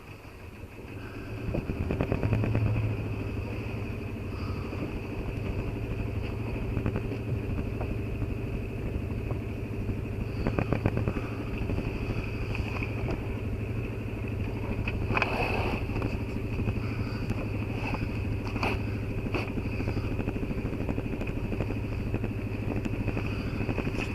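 A sailboat's engine running steadily as the boat motors in a calm, rising to a louder, even hum about two seconds in, with a few light knocks and ticks.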